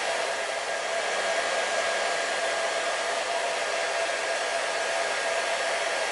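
Hair dryer running steadily: an even rush of blown air with a faint steady whine from the motor and fan.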